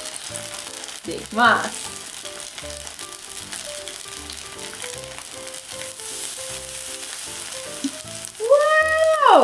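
Batter-coated udon noodles deep-frying in hot oil in an electric pot, a steady sizzle, over light background music. A short rising pitched sweep comes about a second and a half in, and a louder pitched sound rises and falls near the end.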